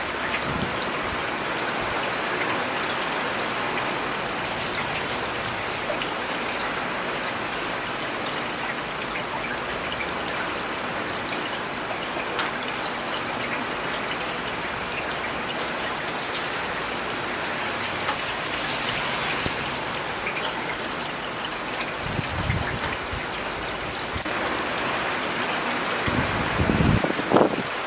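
Steady rain falling on city surfaces, a dense, even patter of drops. A low rumble swells and fades twice near the end.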